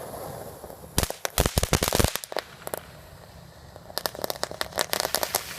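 Firecrackers going off in rapid strings of sharp pops: a fast run about a second in, a few scattered pops, then another dense run from about four seconds in.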